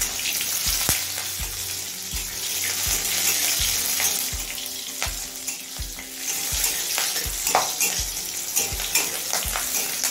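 Green chillies, garlic cloves and nigella seeds sizzling in hot mustard oil in a metal karahi. A spatula knocks and scrapes against the pan about twice a second as they are stirred.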